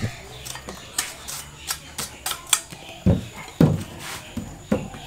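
Cleaver shaving the husk off a young green coconut in quick slicing cuts, then several heavier chopping thuds as the blade strikes into the coconut on a wooden table in the second half.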